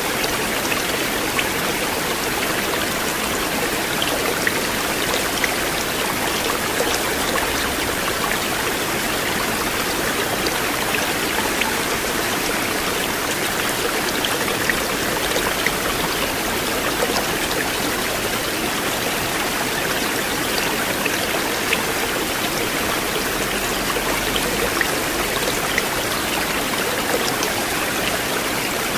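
River water flowing steadily: a continuous rushing with small splashes scattered through it.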